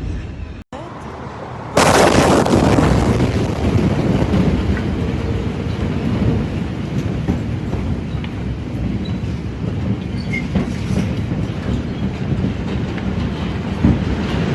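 A sudden loud blast about two seconds in, followed by a long, steady rumbling roar.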